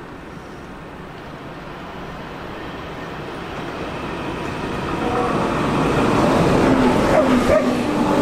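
A train approaching, its running noise growing steadily louder, with steady tones coming in about five seconds in as it draws close.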